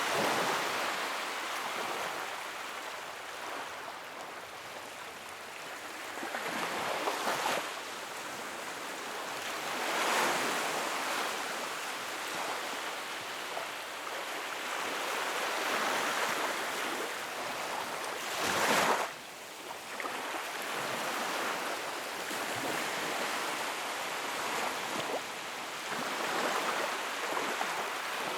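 Wood fire crackling and hissing in a fireplace, with swells of rushing flame noise every few seconds; the loudest swell comes near the end of the second third and drops away suddenly.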